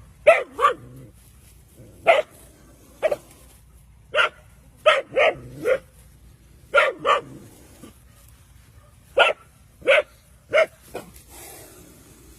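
A dog barking about fourteen times in irregular bursts, single barks and quick pairs or threes with short pauses between, as it confronts a snake.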